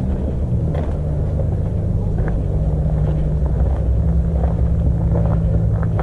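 Low steady rumbling drone with a motor-like hum, and a scattering of light clicks and scuffs over it.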